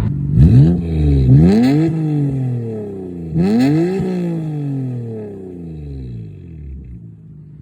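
Nissan GT-R engine revving up sharply three times, each rise in pitch falling away slowly, the sound fading near the end.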